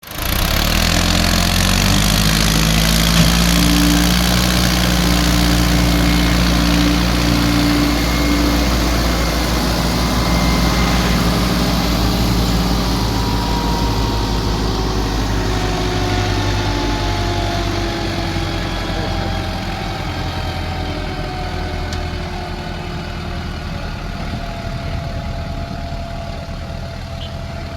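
Tractor diesel engine running hard under load, a steady heavy drone. In the second half its tones slowly fall in pitch and it gradually gets quieter.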